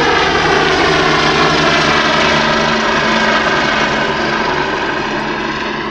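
Helicopter flying close by, loud and steady, its pitch slowly falling as it moves away.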